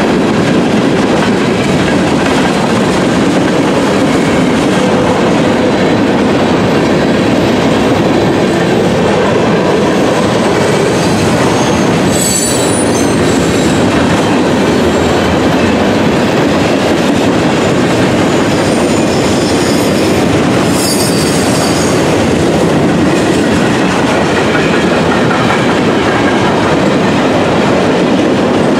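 Freight train cars rolling past: a steady, loud rumble and clatter of steel wheels on the rails, with brief high wheel squeals about twelve seconds in and again around twenty seconds in.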